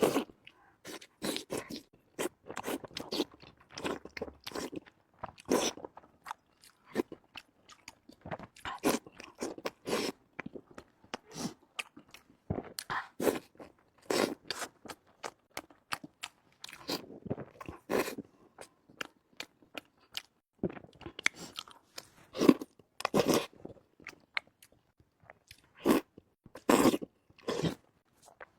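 A person eating close to the microphone: irregular bites and chewing in short sharp clicks with brief pauses, a few louder ones near the end.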